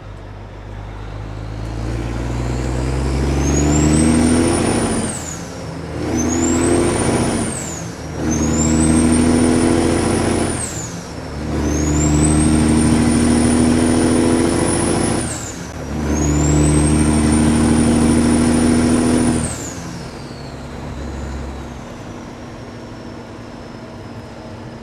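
Kenworth W900 diesel engine with loud exhaust pipes pulling hard under load, going up through the gears: about five pulls, each rising in pitch with a brief dip at every shift. A high whine climbs with each pull and falls at each shift. Near the end the throttle comes off and the engine drops to a quieter steady run.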